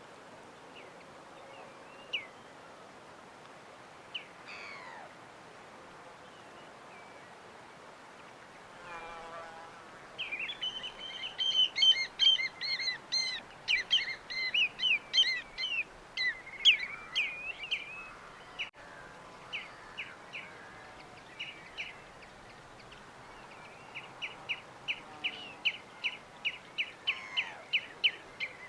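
Small birds chirping: a few scattered calls at first, then a dense burst of overlapping chirps, and near the end a fast, even run of repeated chirps. A faint steady hiss lies beneath.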